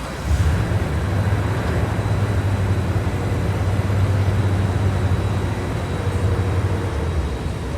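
Jet airliner engine noise: a loud, steady low rumble that sets in suddenly just after the start and eases off near the end.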